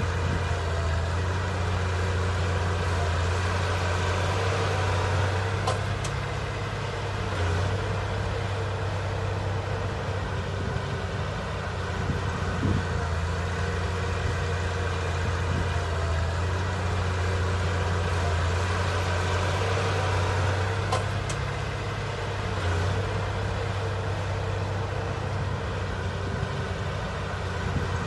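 Heavy diesel engine of earthmoving machinery running steadily at a near-constant speed, a deep hum. A pair of faint clicks comes twice.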